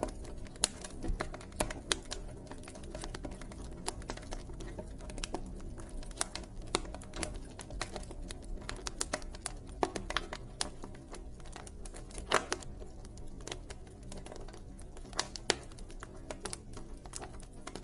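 Campfire burning, wood crackling and popping in quick irregular clicks over a low steady rumble of the flames.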